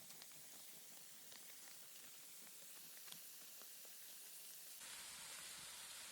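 Near silence: a faint, steady hiss with a few tiny ticks, becoming slightly louder about five seconds in.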